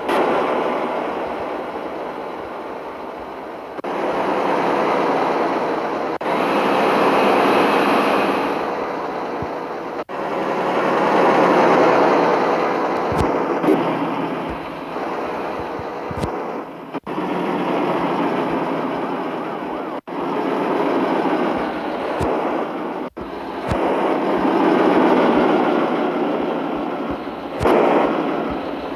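Mitsubishi Fuso truck driving, its engine and road noise loud and dense, jumping abruptly in level and character every few seconds where the footage is cut between shots.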